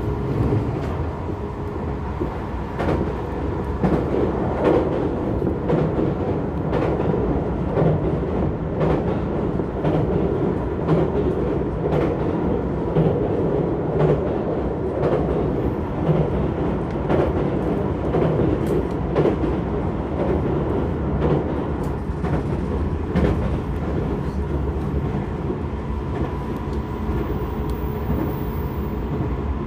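Tokyo Metro 16000 series electric train running steadily: a continuous rumble with a faint steady whine, and the clack of wheels over rail joints every second or so.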